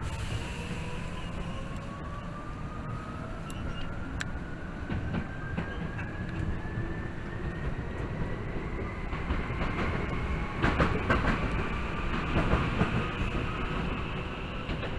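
Tokyu 8500 series electric train running, heard from inside the car: the traction motor and gear whine climbs steadily in pitch as the train gathers speed, over a steady rumble. Around ten seconds in the wheels clatter over rail joints.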